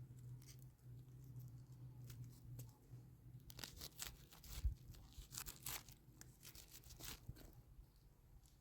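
Faint scattered crackling and rustling. A low steady hum fades out about two and a half seconds in.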